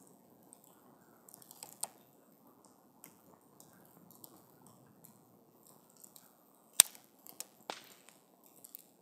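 Wood campfire crackling, with scattered sharp pops over a soft, steady rustle of flame. The loudest pop comes about seven seconds in, with a few more close after it.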